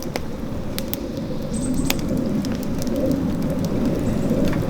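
Wood fire burning in a fire pit: a steady low rumble with scattered sharp crackles from the burning logs. A brief high whistle sounds about one and a half seconds in.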